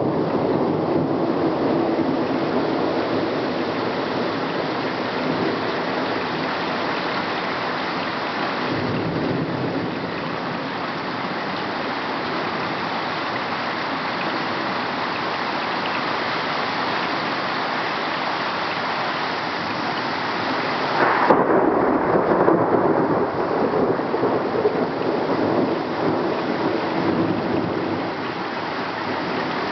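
Heavy rain falling steadily during a thunderstorm, with thunder; about two thirds of the way through, a sudden sharp thunderclap followed by several seconds of rumbling.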